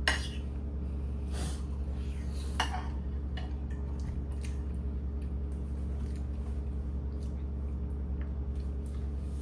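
Kitchen utensils and dishes knocking and clinking now and then, over a steady low hum.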